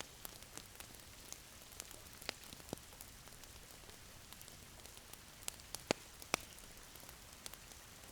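Wood fire crackling in a fireplace: a soft steady hiss with scattered sharp pops at irregular moments, a few louder ones past the middle.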